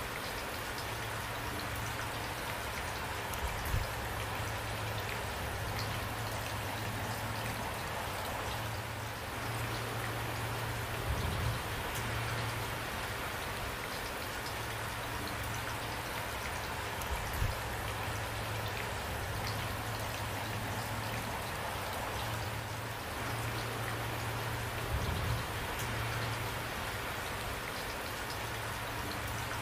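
Steady rain falling, an even dense hiss with a low steady hum underneath and a few brief louder thuds every several seconds.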